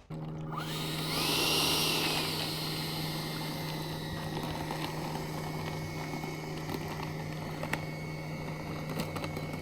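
Electric motor of a radio-controlled model airplane whining: the pitch rises about a second in, holds, then settles lower and steady, over a constant low hum, with a few faint clicks near the end.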